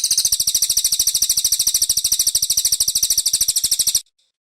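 Brown cililin songbird singing one fast, even, high trill of about a dozen notes a second for about four seconds, which cuts off suddenly.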